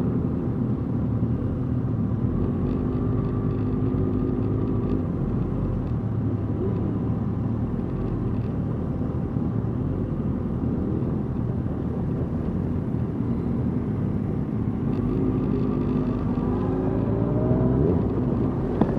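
Motorcycle engines running steadily at low speed, with a low rumble from several bikes. An engine revs up, rising in pitch, near the end.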